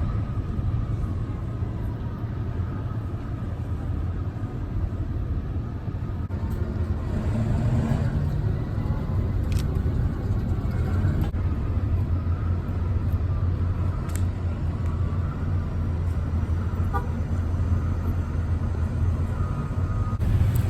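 Boat engine running steadily: a low drone that grows a little louder about seven seconds in, with faint thin whining tones and a few short clicks over it.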